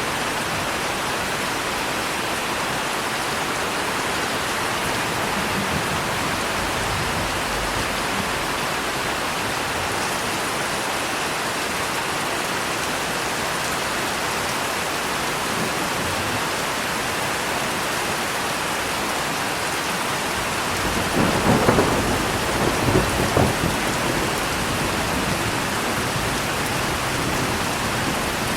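Steady heavy rain, with a roll of thunder rumbling about three-quarters of the way through.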